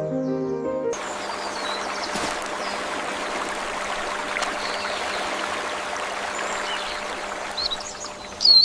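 Steady rushing of a flowing stream, with a few faint bird chirps over it and a clearer chirp near the end. A short musical phrase ends about a second in, as the water sound begins.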